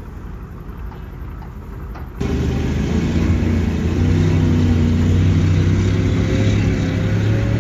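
Soviet KV-1 tank's V-2 V12 diesel engine running. It is fairly quiet at first, then about two seconds in it cuts suddenly to a loud, close engine sound that revs up slowly.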